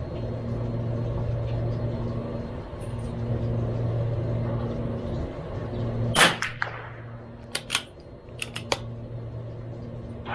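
A CZ 457 MTR .22LR bolt-action rifle fires one shot about six seconds in, followed by a run of short sharp clicks as the bolt is worked. A steady low hum runs underneath, and a fainter report sounds near the end.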